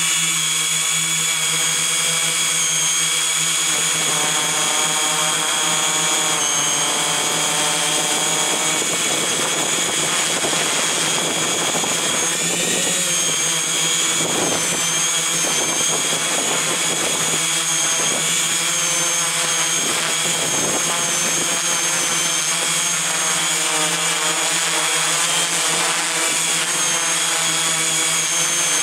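Multirotor drone's electric motors and propellers whining steadily in flight, their pitch wavering slightly, over a hiss of air noise.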